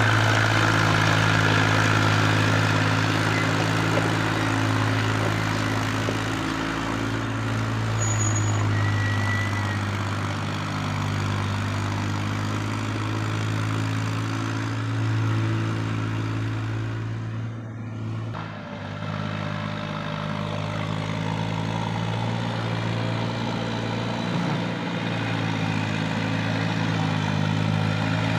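Heavy diesel engine of machinery at a loading site running steadily with a low, even drone, dipping briefly in level about two-thirds of the way through.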